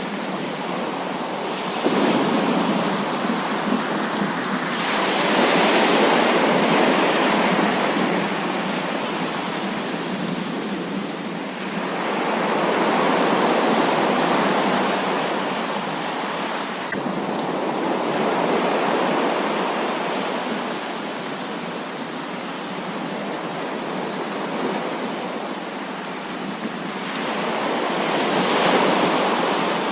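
Heavy rain pouring steadily with rolling thunder, swelling louder every few seconds and easing back between swells.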